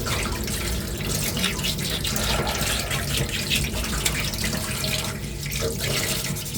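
Sandpaper rubbed by hand over a 3D-printed, putty-coated armour ring, in quick, uneven scratchy strokes, smoothing a rough spot on the inside of the ring.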